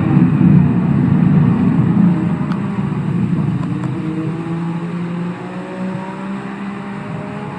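Kawasaki STX-1100 jet ski's two-stroke triple running hard under full-throttle acceleration, its engine note mixed with a loud rush of water and wind. The rush eases after about two seconds while the engine note climbs a little.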